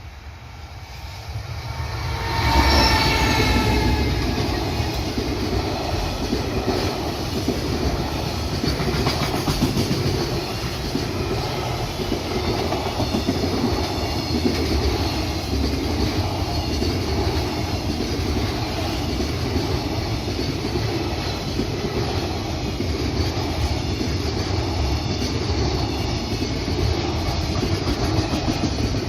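Freight train passing close by: it builds up over the first couple of seconds, the locomotive goes past about two and a half seconds in, then a long string of freight wagons rumbles and clatters over the rail joints in a steady rhythm.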